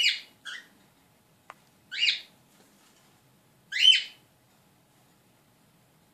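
Pet bird giving short, loud calls: one at the start with a brief one just after, then one about two seconds in and another about four seconds in. A faint click falls between the first calls and the second.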